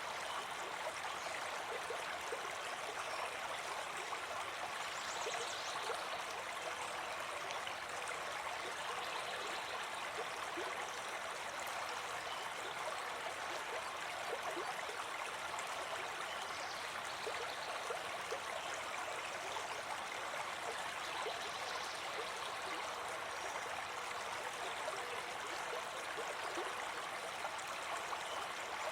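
A brook babbling steadily, with small irregular gurgles in the running water.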